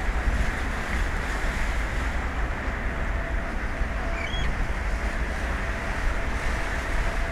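Wind buffeting an outdoor microphone with a low rumble, over a steady rush of sea. A brief high chirp sounds about four seconds in.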